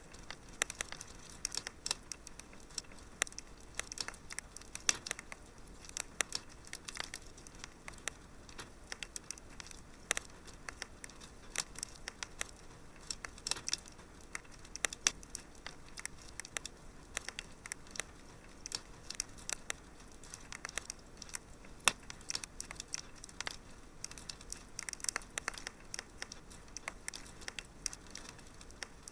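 Wood fire crackling in a fireplace: irregular sharp pops and snaps, a few much louder than the rest, over a soft steady hiss.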